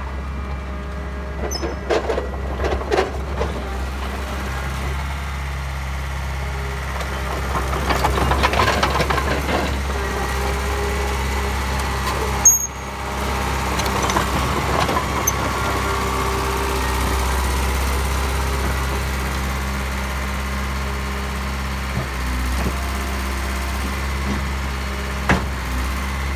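Caterpillar 953 tracked loader's diesel engine running steadily during a test drive, with several metallic clanks about two to three seconds in and a single sharp clank near the end.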